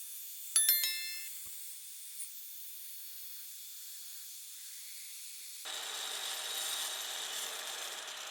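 A sharp clink that rings briefly at several pitches, like a hard object struck, followed by a steady hiss. About two-thirds of the way in, a louder, even rasping or rubbing noise starts.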